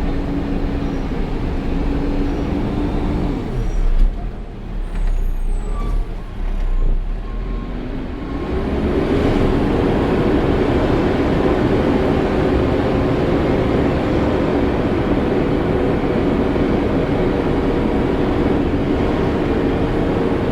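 Peterbilt 520 garbage truck's diesel engine running, dropping in speed about three seconds in, with a sharp air-brake hiss around four seconds. About eight seconds in the engine speeds up again and holds steady at a higher, louder pitch.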